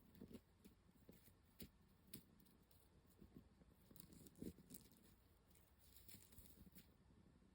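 Very faint, scattered rustles and small ticks from a cat playing with a tinsel wand toy, the most distinct tick about halfway through.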